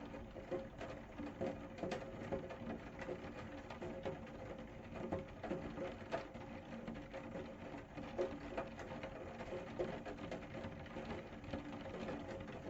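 Rain falling, a dense, irregular patter of drops without letup.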